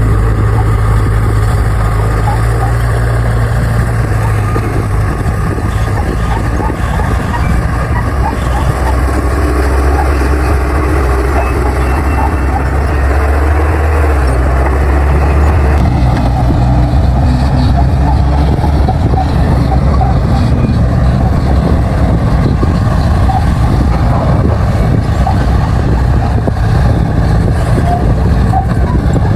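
Crawler bulldozer's diesel engine running loud and steady as it pushes soil, its low engine note dropping about four seconds in and rising again near sixteen seconds.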